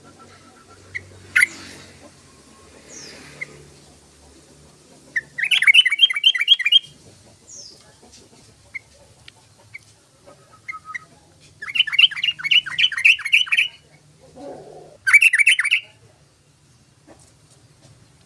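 Yellow-vented bulbul (trucukan) singing loudly. It gives three bursts of fast, bubbling repeated notes, each one to two seconds long, with short single chirps in between.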